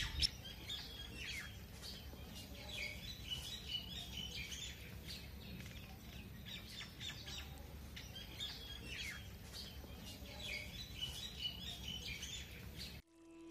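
Small birds chirping, many short high calls and trills, over a faint low steady hum. The sound cuts off abruptly near the end.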